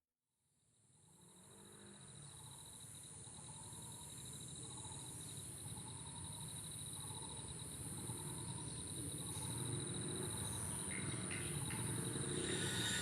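Cicadas singing in a forest chorus: a dense, high-pitched buzz that swells about once a second, with a thinner steady whine and a low rumble beneath. It fades in from silence after about a second and grows steadily louder.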